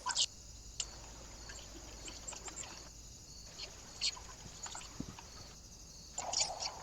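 Small birds giving short high chirps and ticks at a feeder, with a denser burst of chirps about six seconds in. A steady hiss underneath changes abruptly a few times.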